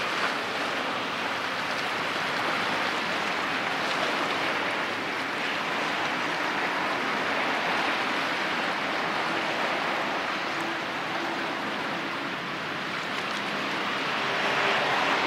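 Steady rush of water and waves, with a faint motor drone that grows louder in the last few seconds.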